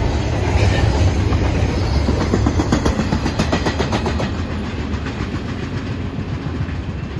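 Intermodal freight train cars rolling past with a steady low rumble, their wheels clicking rapidly over the rail joints for a couple of seconds mid-way, then growing a little quieter.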